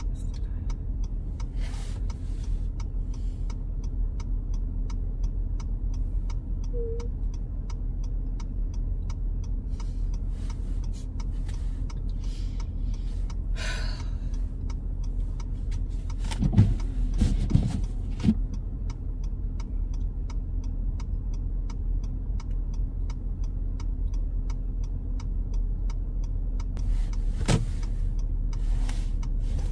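Car driving, its steady engine and road rumble heard from inside the cabin, with a faint regular ticking about twice a second. A few knocks or thumps come about two-thirds of the way in and once more near the end.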